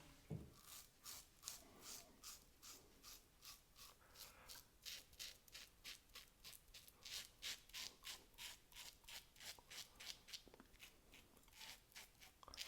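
Leaf Thorn safety razor with a Feather blade scraping through stubble in a steady run of short strokes, about two or three a second, each a crisp scratchy rasp.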